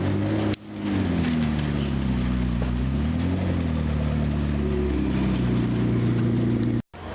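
McLaren MP4-12C's twin-turbo V8 running at low revs. Its pitch sinks, rises briefly about three seconds in, then holds steady. There is a short dropout just before the end.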